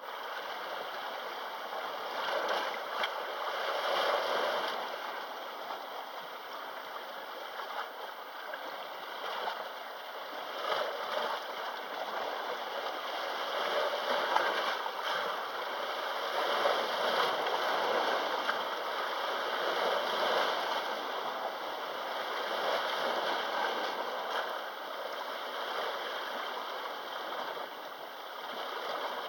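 Small sea waves washing and lapping against the shore in a continuous wash that swells and eases every few seconds.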